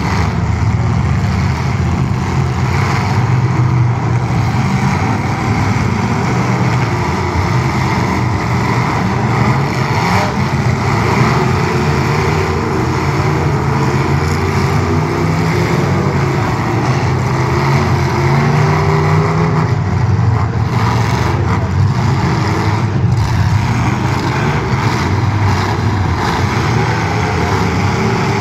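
Engines of several full-size demolition derby cars running hard at once, revving up and down over and over.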